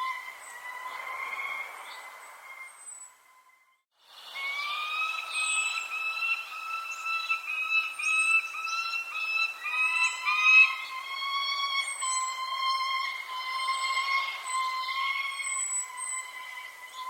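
Birds calling: long held, horn-like notes and runs of short repeated notes, with brief high falling chirps over them. The sound drops out for about half a second around three and a half seconds in, then resumes.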